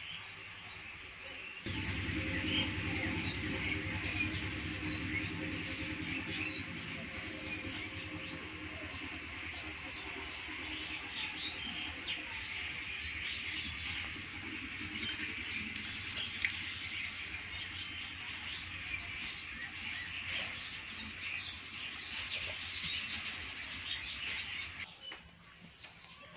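Many small birds chirping continuously over a low steady hum; both start abruptly about two seconds in and cut off shortly before the end.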